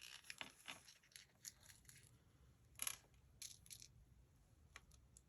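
Faint small clicks and light rustles of tiny sequins and silver star confetti being picked out and dropped, with one slightly louder rustle about three seconds in.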